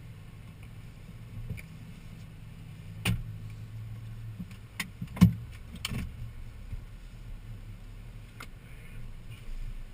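Vehicle engine running low and steady, broken by several sharp knocks and clunks, the loudest a little past five seconds in, as the vehicle jolts over a rocky creek bed.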